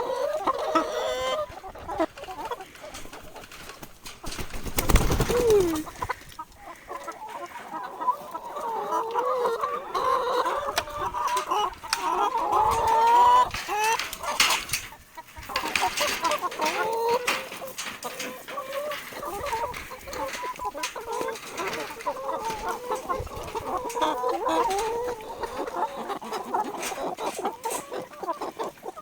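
A flock of chickens clucking continuously, with a louder falling call about five seconds in and a short burst of clatter about halfway through.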